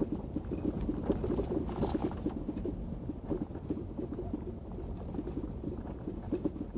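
Volkswagen Golf Mk7 rear suspension knocking rapidly and irregularly as the car drives over cobblestones, over a low rumble of tyres on the stones. The knock is the rear-suspension fault the owner is recording.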